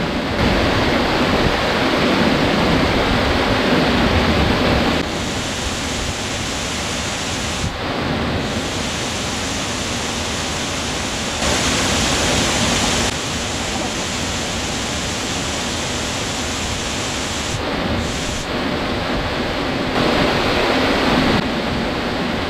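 Waterfall rushing into its pool: a loud, steady wash of falling water, its loudness and tone shifting abruptly several times.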